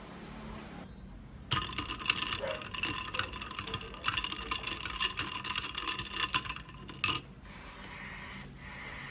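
Rapid ringing clinks of a utensil against a cup, running for about five seconds and ending with one sharp, louder clink.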